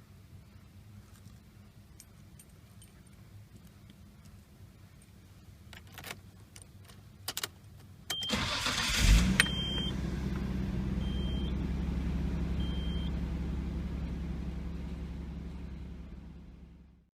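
A few clicks, then the Nissan Skyline GT-R R32's RB26DETT twin-turbo straight-six is cranked by the starter for about a second, catches and settles into a steady idle. Short high beeps sound a few times just after it starts.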